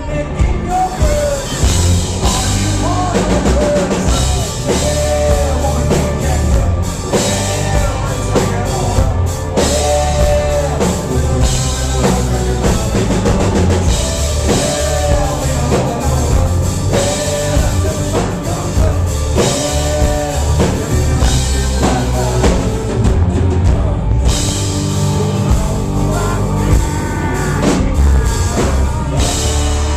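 A live country-rock band playing loudly and steadily, driven by a drum kit.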